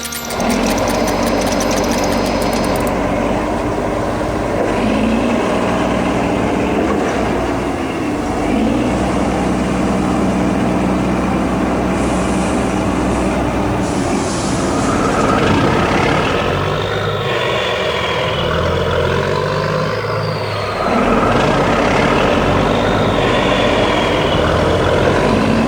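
Heavy truck engine running steadily, its pitch shifting a few times, with hissing noise over it.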